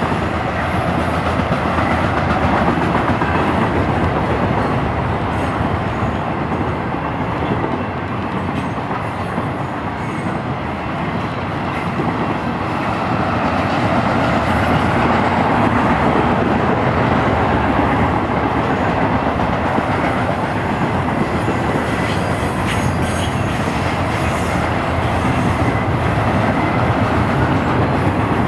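Union Pacific intermodal double-stack freight train rolling past: steady rumble of steel wheels on rail, swelling slightly about halfway through.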